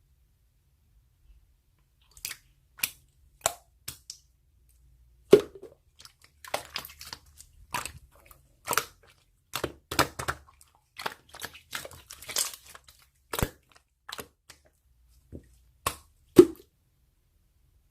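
Slime being worked by hand, giving irregular sharp crackles and pops, some in quick clusters, beginning about two seconds in.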